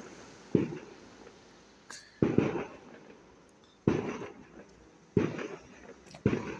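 Fireworks bursting: five sharp bangs spaced about a second to a second and a half apart, each followed by a short echoing tail.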